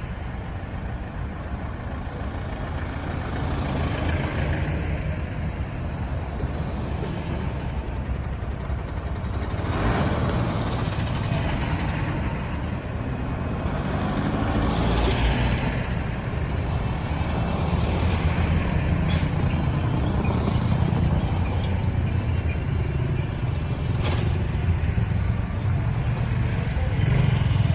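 Road traffic: a steady rumble of engines and tyres, with vehicles passing close by about ten and fifteen seconds in.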